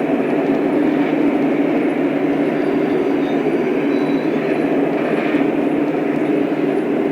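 Lionel O-scale model train running on the track, a steady rumble that holds even throughout.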